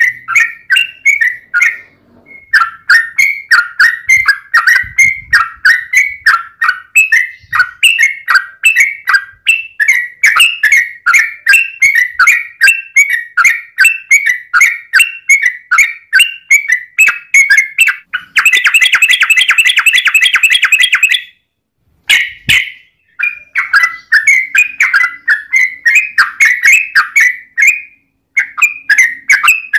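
Yellow-vented bulbul (trucukan) calling in long runs of rapid repeated chirps, several a second. About two-thirds of the way through the calls run together into a fast continuous trill for about three seconds, then break off briefly before the chirping resumes.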